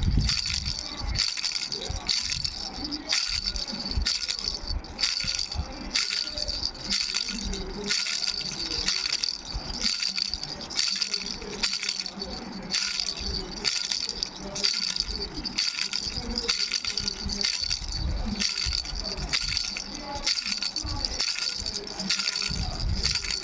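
A three-bell baby rattle shaken over and over, its bells jingling with a steady high ring over dense, uneven shaking strokes.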